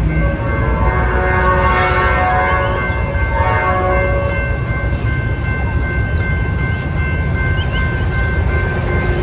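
Locomotive air horn sounding a chord of several notes for about four seconds over the heavy rumble of a train passing at speed through the station. A few high steady tones carry on after the horn, and there are light clicks near the middle.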